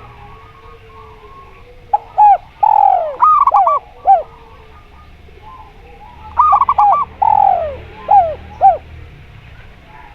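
Zebra dove and spotted dove calling in two bouts, with a pause between: drawn-out falling coos and short coos, mixed with quick runs of higher, trilling cooing notes.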